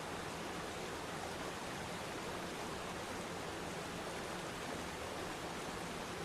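Waterfall pouring steadily into water, an even rushing hiss with no breaks.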